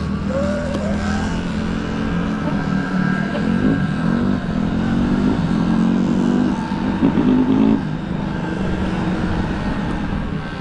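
Motorcycle engine running and revving, its pitch rising and falling several times, loudest about seven seconds in.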